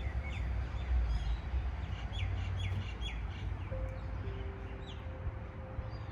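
Small birds chirping in short, quick notes, a run of several about two seconds in and a few more near five seconds, over a low rumble.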